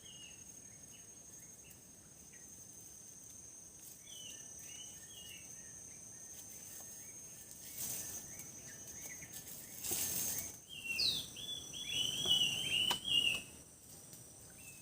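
Small birds chirping in short repeated calls, growing louder near the end, over a steady high insect drone. Two brief rustling or scraping noises come about eight and ten seconds in.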